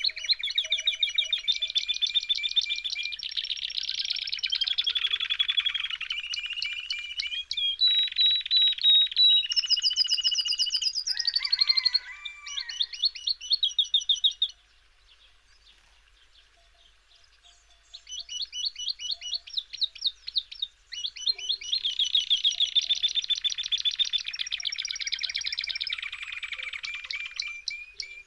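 A small songbird singing long, rapid trills and warbles in two extended phrases, with a pause of a few seconds about halfway through.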